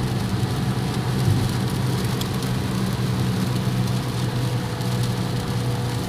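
Steady low drone of a car on the road, heard from inside the cabin, with an even hiss of rain and wet road noise over it.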